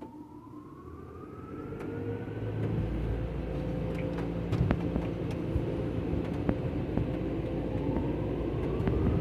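Car-wash dryer blowers spinning up: a whine rising in pitch over a growing roar, the whine climbing again near the end.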